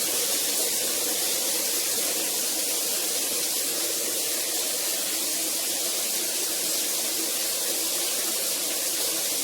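Water spraying steadily from a running rain shower head.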